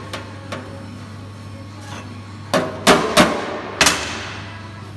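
Hammer blows on sheet metal: a couple of light taps, then four hard strikes in quick succession about two and a half seconds in, the last one ringing out.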